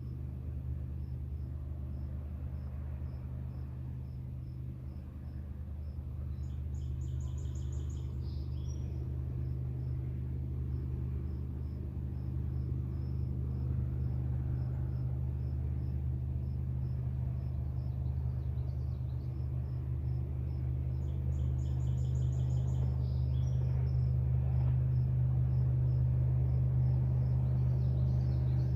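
A cricket chirping steadily about twice a second, with a bird's short trill twice, over a loud low steady drone that grows louder toward the end.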